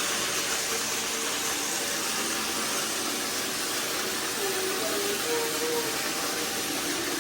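Robot vacuum (iRobot Roomba i3 Plus) running a spot-clean cycle, a steady whirring hiss of its suction fan and brushes.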